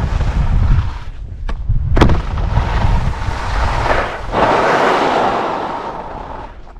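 Wind buffeting the microphone while skiing, with two sharp knocks about a second and a half and two seconds in, then a long hiss of skis sliding over snow that fades toward the end.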